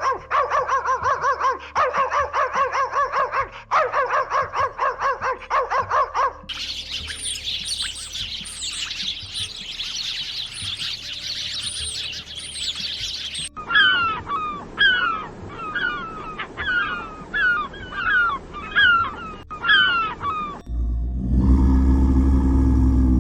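A run of separate animal recordings. First come rapid pulsed calls in quick series. Then small birds twitter with high chirps, then a bird repeats a short falling call about once a second. Near the end a loud, low, steady call begins.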